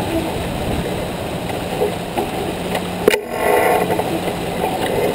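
Wind and water noise aboard a J24 sailboat under way, with one sharp knock about three seconds in.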